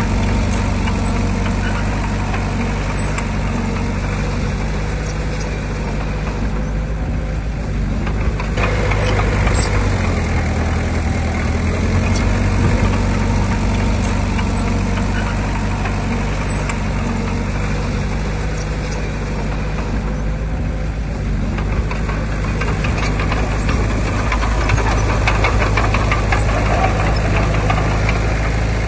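Heavy earthmoving machinery's diesel engine running steadily, its pitch shifting a little partway through, with faint clatter in the later seconds.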